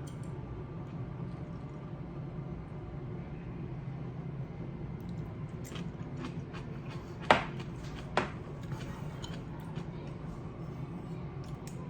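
Steady low hum of room tone, with a few light clicks and then two sharp knocks about a second apart about two-thirds of the way in.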